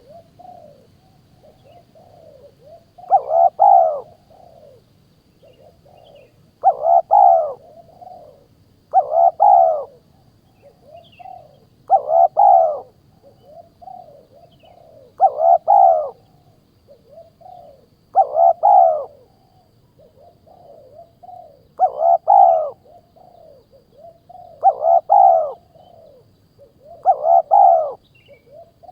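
A bird call repeated about every three seconds, nine times in all. Each call is a pair of close, arching notes, with softer notes between the calls.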